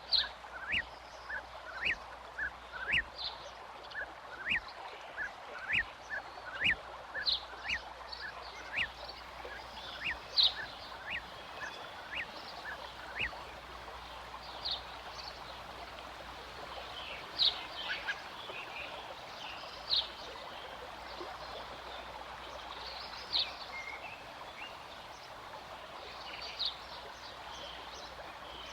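Birds calling outdoors: a run of short, sharp chirps repeated about once every second, thinning out about halfway through, with scattered higher calls later, over a steady background hiss.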